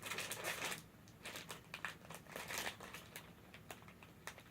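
Plastic snack wrapper crinkling as it is handled and opened: a dense rustle at first, then scattered crackles.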